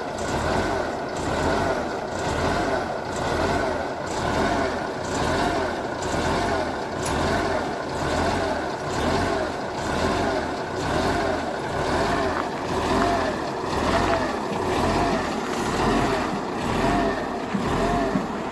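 KhTZ-242K tractor's diesel engine running just after a cold start in frost, with a steady rise and fall about once a second.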